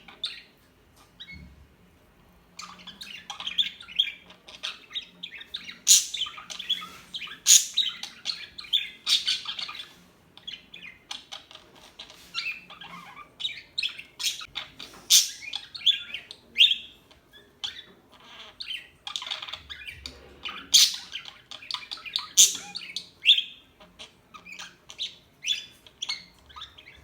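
Small birds chirping and tweeting in a busy run of short, high calls, after a quiet second or two near the start.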